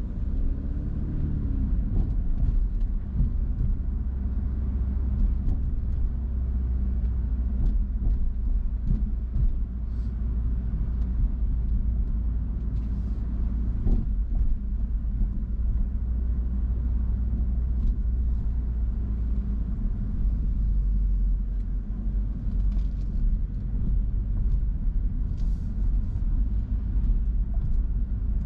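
Car driving, a steady low rumble of road and engine noise. The engine note briefly rises and falls about a second in.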